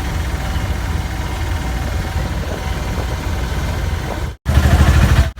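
Car engine running with a steady low rumble. It cuts out abruptly about four seconds in and comes back louder a moment later.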